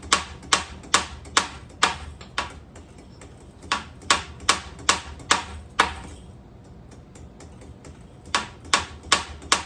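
A ceiling fan being struck: a rapid series of sharp knocks, about two to three a second, in three runs with short pauses between.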